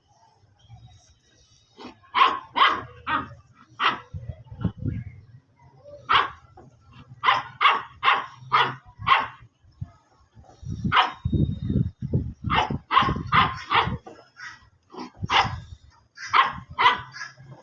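Dogs play-fighting, barking in quick runs of several barks at a time, with low growling underneath in places.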